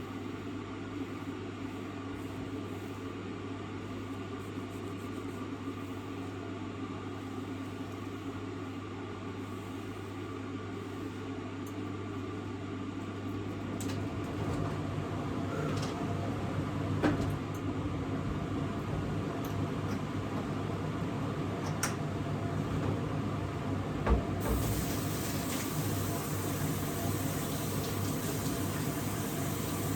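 A steady low hum from a running kitchen appliance. A little before halfway a louder rushing, water-like noise builds over it, with a few light clicks and one sharp knock about three-quarters in.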